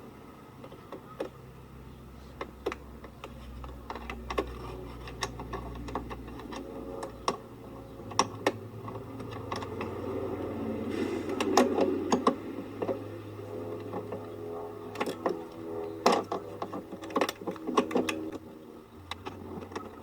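Irregular clicks and knocks of parts being handled, over a low steady hum.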